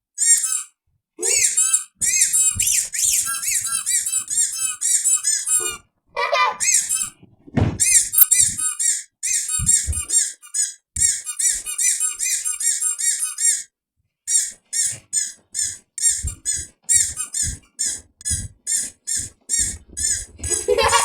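Rapid, high-pitched squeaks repeating several times a second in long runs, broken by a few short pauses.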